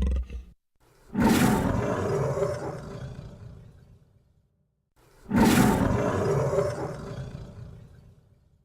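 Monster roar sound effect, twice: each starts suddenly and fades away over about three seconds.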